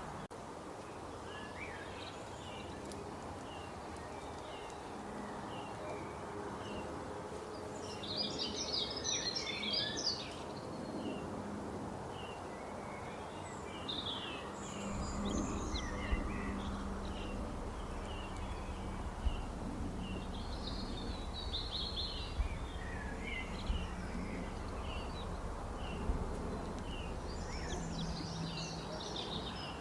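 Birds calling outdoors: a short high chirp repeats every second or so, and a few bursts of busier chattering calls come and go. A steady low background hum runs beneath, and a low rumble joins about halfway through.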